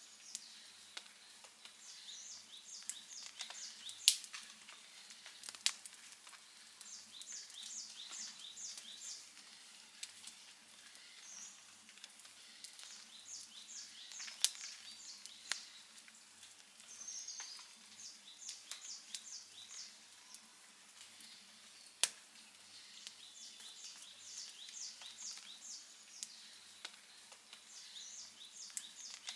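Wood fire burning with a soft hiss and scattered crackles, and a few sharp loud pops. Runs of high, quick chirps repeat every few seconds in the background.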